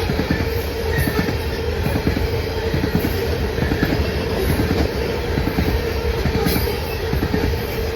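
A train passing close by, its wheels rumbling and clicking steadily over the rails, with a steady hum running underneath.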